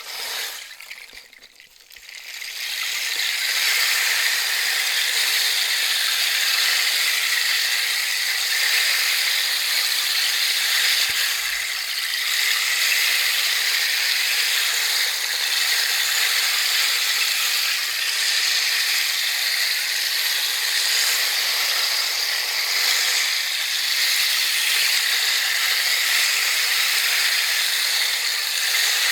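Running water of a small brook: a quiet trickle, then a steady, even rush of water from about two seconds in.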